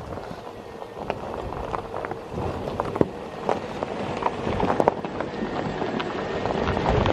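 4x4 crawling slowly over a rocky dirt trail: rocks and gravel crunching and knocking under the tyres, many sharp clicks and thuds over the steady sound of the engine, with some wind on the microphone.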